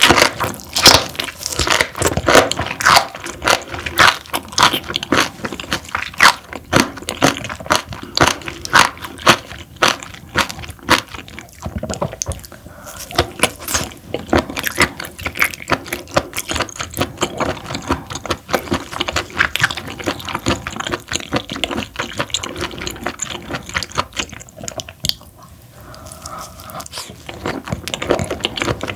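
A person chewing food close to the microphone: a dense run of short, sharp mouth clicks, several a second, that thins out briefly near the end.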